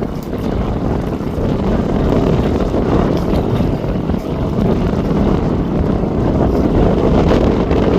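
Jet airliner engines running as a loud, steady rumble, with wind buffeting the microphone.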